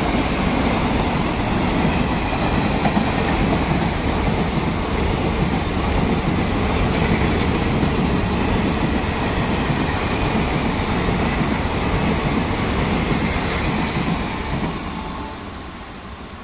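The passenger coaches of a WAP-5-hauled express train passing through a station at speed: a steady, loud rush of wheel-on-rail noise that fades as the train draws away near the end.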